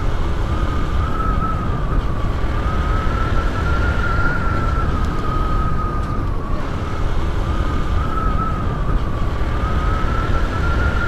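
Motorcycle riding at speed: wind and engine rumble on the helmet microphone, with a thin high whine that slowly rises and falls twice.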